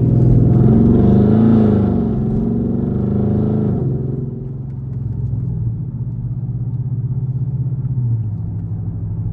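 Dodge Charger Scat Pack's 392 Hemi V8 with catless midpipes, heard while driving. The engine note climbs in the first couple of seconds and eases back down by about four seconds in, then settles into a steady low drone.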